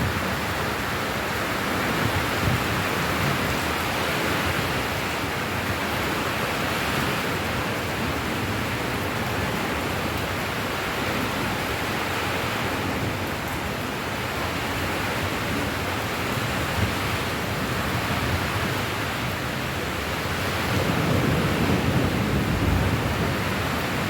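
Steady rain falling, an even hiss. A low rumble swells about twenty seconds in and lasts to the end.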